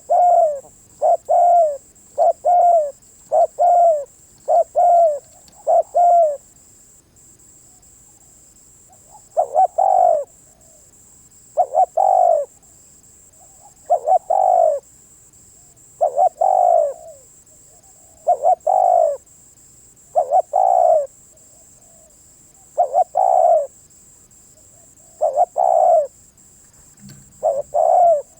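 Spotted dove cooing: a quick run of short coo phrases, then after a pause of about three seconds a slower series, one phrase roughly every two seconds.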